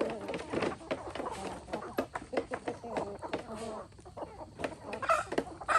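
Chickens clucking, with short repeated calls and many sharp clicks and taps among them.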